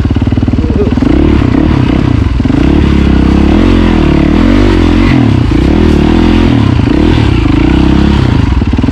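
Motorcycle engine running close by under way, its pitch rising and falling with the throttle.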